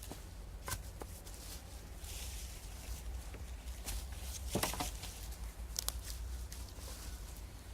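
Dead wood being gathered and broken for firewood: a few sharp snaps and cracks, the loudest about halfway through, over light rustling of sticks and leaf litter.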